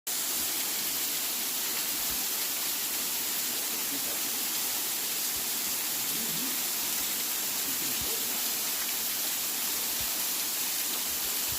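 Waterfall: the steady rush of falling water, an even hiss with no breaks.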